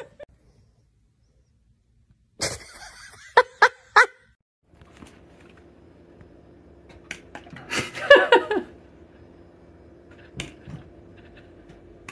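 Short calls from a pet animal: three quick sharp calls in a row a few seconds in, then a cluster of calls over a steady low hum a few seconds later.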